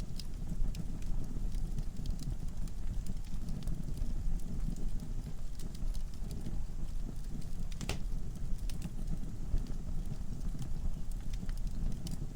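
Wood fire burning in a fireplace: a steady low rumble of flames with scattered crackles and pops from the logs, one louder snap about eight seconds in.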